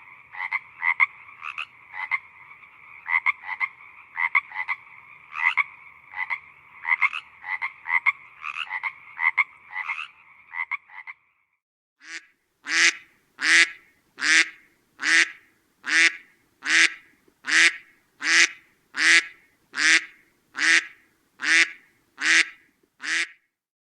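Frogs croaking: for about the first eleven seconds a chorus with a steady trill and many quick croaks, then after a short break a single loud croak repeated evenly, a little faster than once a second.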